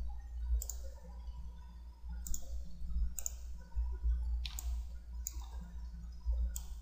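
Computer mouse clicks, about five at uneven intervals, over a steady low hum.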